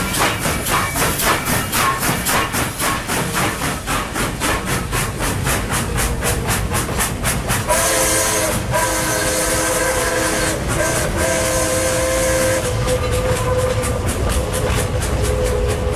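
Train sound effect: a train running with a steady, rapid rhythmic clatter, and from about eight seconds in a multi-note train whistle blowing in several long blasts, the last thinning to a single tone that fades out.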